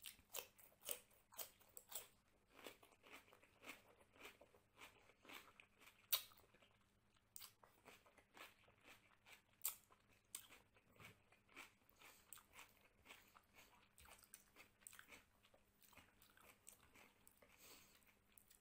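Close-up eating sounds: a person biting raw cucumber and chewing mouthfuls of rice and mutton curry, with irregular crisp crunches and wet chewing clicks. The sharpest crunches come about six and ten seconds in.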